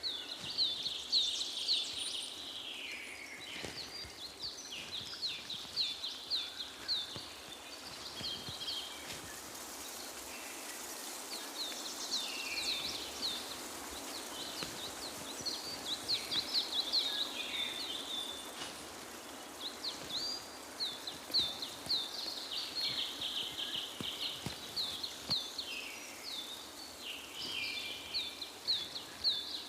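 Birds singing: rapid series of short, high chirps, repeated over and over, over a steady outdoor background hiss.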